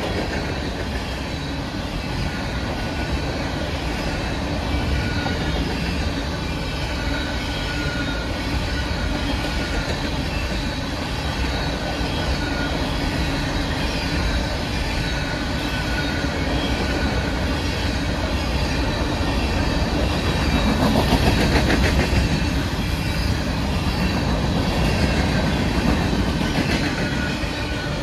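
Covered hopper cars of a freight train rolling past close by: steady noise of steel wheels on the rails, with clacking and a faint high wheel squeal. It is loudest about three quarters of the way through.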